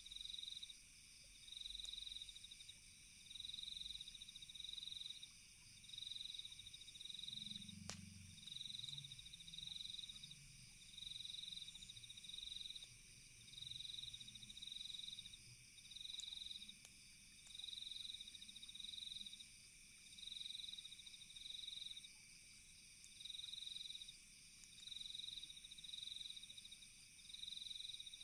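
Faint cricket chirping in regular trills about once a second, over a steady high-pitched drone of other night insects. There is a single sharp click about eight seconds in.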